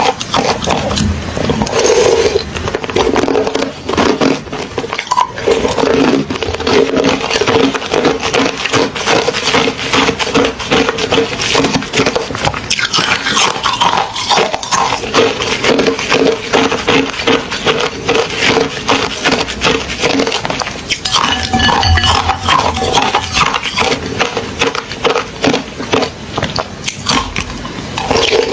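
Hollow refrozen ice being bitten and chewed close to the microphone: a dense, continuous run of crisp cracks and crunches, over a steady low hum.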